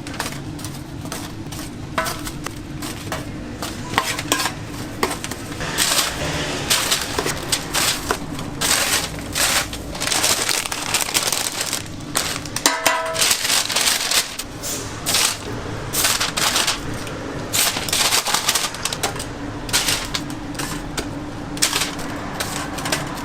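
Food-counter work sounds: repeated clattering and clicking of utensils with rustling, over a steady low hum, and a short beep-like tone about halfway through.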